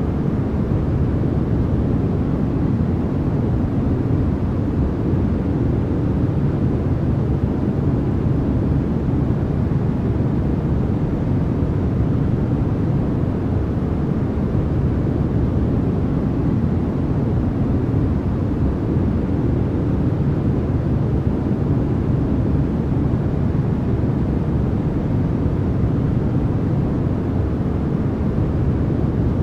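Steady, unchanging noise played as a continuous sleep sound, a deep even rush with most of its weight low down rather than a bright hiss.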